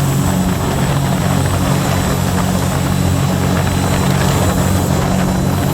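A Scarab 165 ID jet boat under way, its Rotax 1503 4-TEC three-cylinder engine running at a steady speed under a constant rushing noise.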